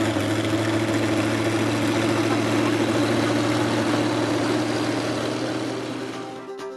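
Truck engine running loud and steady, pulling a weighted sled in a truck pull; the sound fades out near the end.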